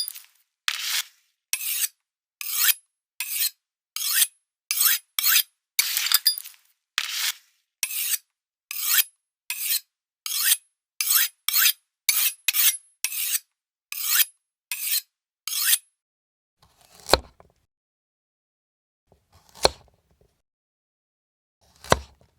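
Knife being sharpened: about twenty quick scraping strokes of the blade, roughly one every three-quarters of a second, stopping about sixteen seconds in. Three single knocks follow, a couple of seconds apart.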